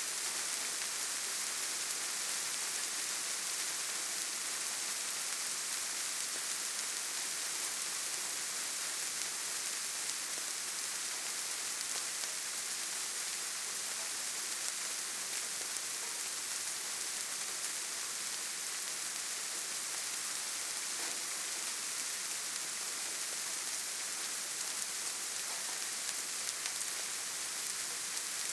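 Steady rainfall in a forest: an even hiss of rain with faint scattered drops.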